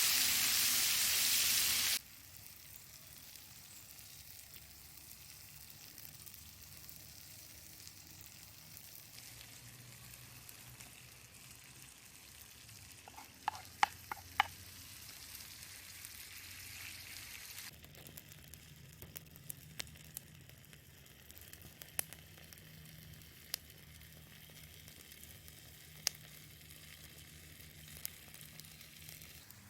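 Food frying in a pan over a woodfire, a loud even sizzle that cuts off abruptly about two seconds in. After that only a faint steady hiss, with a quick run of ringing metallic clinks about halfway and scattered sharp clicks later on.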